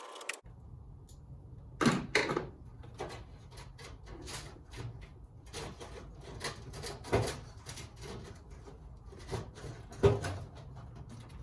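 Scattered clunks and clicks of hand tools and metal car-body parts being handled, with a few louder knocks about two, seven and ten seconds in, over a low steady hum.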